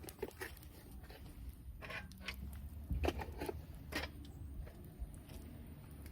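Campfire crackling: scattered pops and snaps of burning wood over a low steady rumble.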